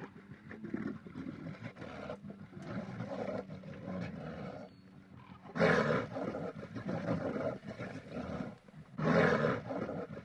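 A large animal calling: low, rough calls throughout, with two louder ones about halfway through and near the end.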